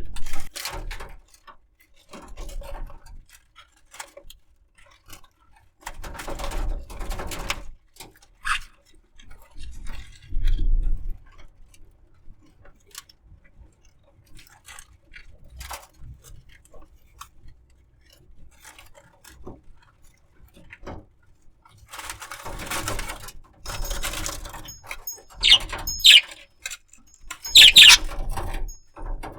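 Budgerigar moving about on a rope among flowers: scattered rustling and scratching, with a few short high chirps near the end.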